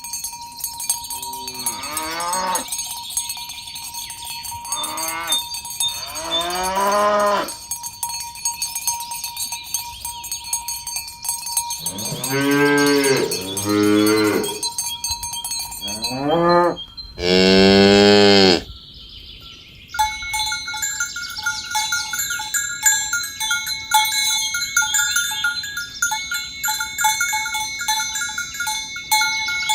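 Cattle mooing, about seven calls in the first two-thirds, the longest and loudest near the middle, with cowbells ringing under them. After a brief lull, from about two-thirds in, many cowbells clank and jingle quickly with no more moos.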